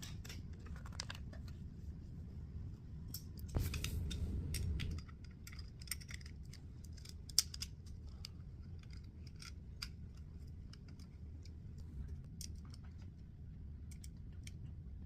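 Plastic Lego bricks clicking and rattling as pieces are handled and pressed together: a scatter of small, sharp clicks, with a louder spell of handling about four seconds in and one sharper click a little later.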